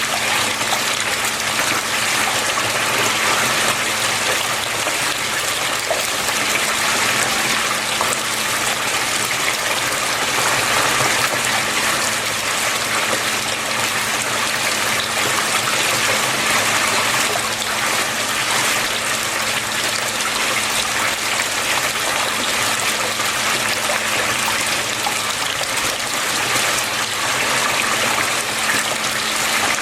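Water flowing and splashing steadily, with a faint steady low hum underneath.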